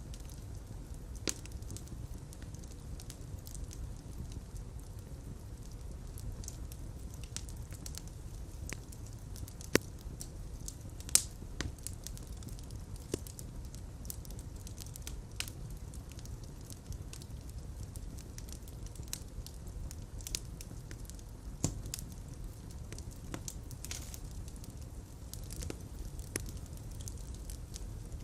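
Fireplace fire burning with a steady low rumble of flames and scattered sharp crackles and pops, a couple of louder pops about ten and eleven seconds in.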